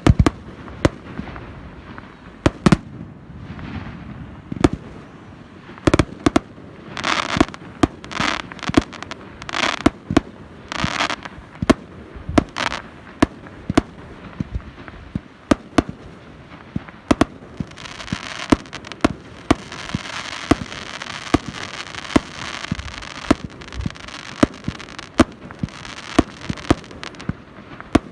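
Fireworks display: a steady run of sharp bangs from bursting shells, with a cluster of hissing bursts about a quarter of the way in. In the second half comes a long stretch of dense crackling.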